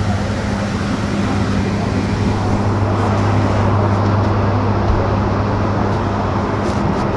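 Electric city bus heard from inside the cabin while it drives: an even rush of road and tyre noise over a constant low hum. The noise grows fuller about two and a half seconds in.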